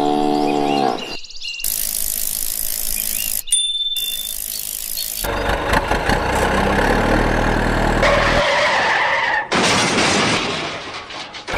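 A string of edited cartoon sound effects with abrupt cuts: a short pitched tone about a second long, bursts of hiss, then a longer stretch of vehicle engine noise from about halfway.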